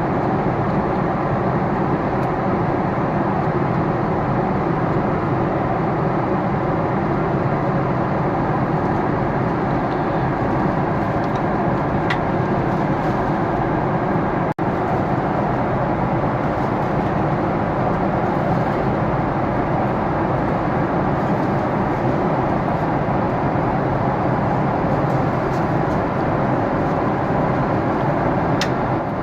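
Steady cabin noise inside a Boeing 777-300ER in flight: a constant rush of air with the drone of its GE90 engines underneath. It drops out for an instant about halfway through.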